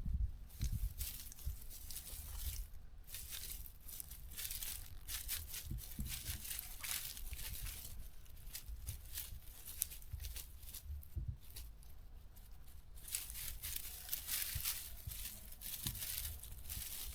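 Footsteps crunching and dry grass and brush rustling against a walker on a trail, in uneven swells.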